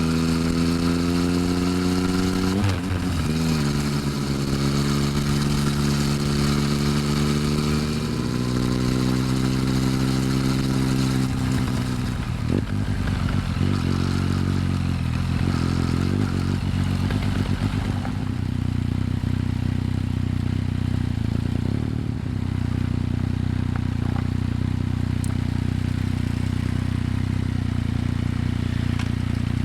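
Yamaha MT-09's three-cylinder engine heard close at the exhaust while riding: the note climbs and drops twice with gear changes, then settles into a steady low idle for the second half.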